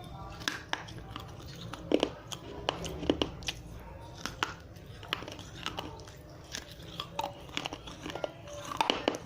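Teeth biting and chewing pieces of dry red clay diya (small earthenware oil lamp) close to the microphone: irregular sharp crunches and cracks, loudest about two seconds in and just before the end.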